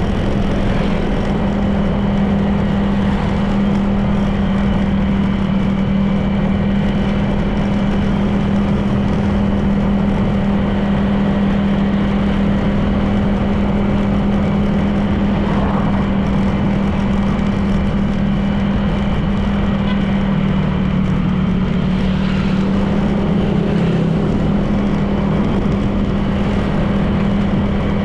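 Honda PCX 160 scooter's single-cylinder four-stroke engine running steadily at cruising speed, with wind and tyre noise; the engine note eases slightly about three-quarters of the way through.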